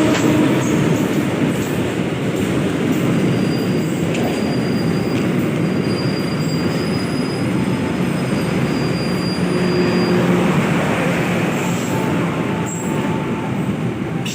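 A train passing straight through a station without stopping, its wheels running over the rails with a loud steady rumble. A thin, high wheel squeal sounds for several seconds in the middle.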